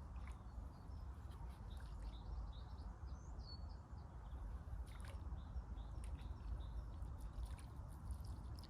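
Outdoor ambience: a steady low rumble with small birds chirping faintly on and off, and a few faint clicks.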